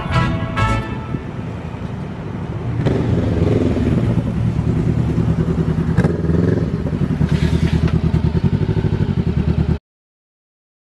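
Motorcycle engine running with a steady low pulsing beat that grows louder about three seconds in, then the sound cuts off suddenly near the end.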